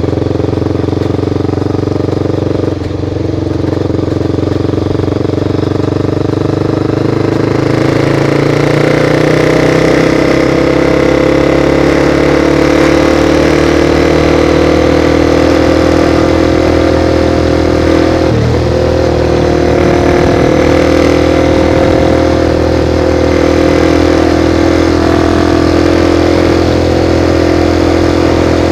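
Motorcycle engine running under way. It grows louder about a quarter of the way in, then its pitch climbs slowly, with a brief dip about two-thirds of the way through.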